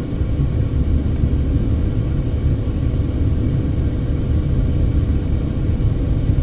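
A car driving at a steady speed: even, low rumble of road and engine noise, with a faint steady hum above it.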